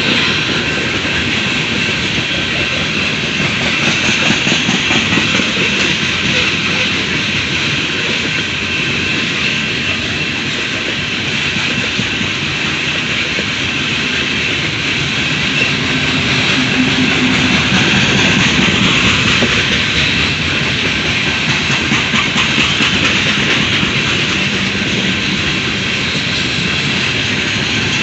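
Loaded coal train's cars rolling past: a steady, loud rumble of steel wheels on rail with continuous rapid clicking.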